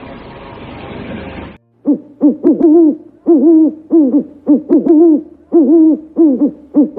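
A steady hiss stops abruptly about a second and a half in. An animal then gives a rapid run of loud, short hooting calls, each rising and falling in pitch, about a dozen in five seconds.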